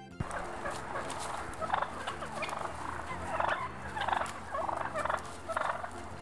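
Domestic turkey toms gobbling repeatedly: about six short, rattling gobbles in quick succession.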